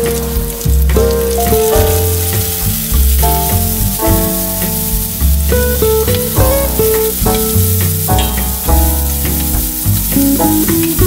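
Ginger, garlic and chili sizzling in hot oil in a wok as Sichuan peppercorns and then diced onion and bell pepper are added, under background music with a melody and a bass line.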